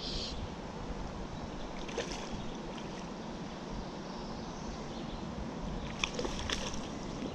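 Mountain trout stream flowing steadily, a constant rush of water, with a few brief sharp sounds about two seconds in and again around six seconds.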